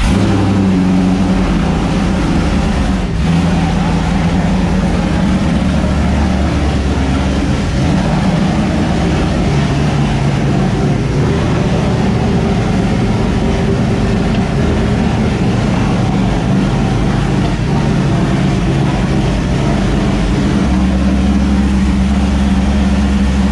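Freshly swapped Ford 5.0 Coyote DOHC V8 idling loudly on its first runs with no mufflers fitted, its low idle note shifting a few times. The engine still needs tuning; the owner thinks airflow from the new cold-air intake is throwing off the computer.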